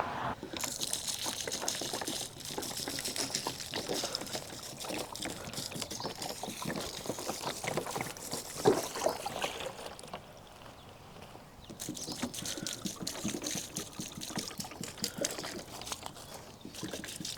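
Water pouring and splashing onto garden plants and soil while they are watered. It stops for about two seconds just past the middle, then runs again.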